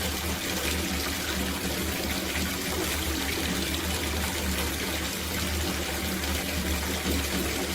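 Water running steadily from a tap into an outdoor copper bathtub as it fills, an even gushing splash with a steady low hum underneath.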